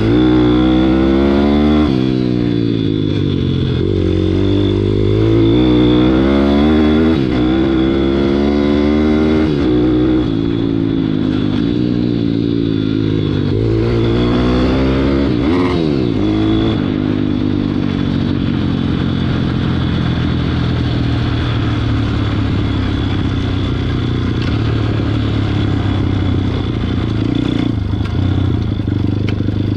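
WPB 160 pit bike's small single-cylinder engine revving up and down under riding, its pitch climbing and dropping repeatedly through the first half. It then runs at a steady speed for the last dozen seconds.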